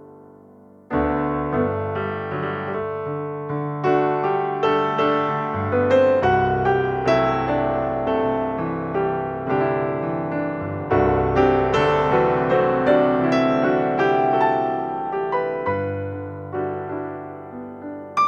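Background piano music: a slow, gentle piano piece, with a new phrase entering about a second in.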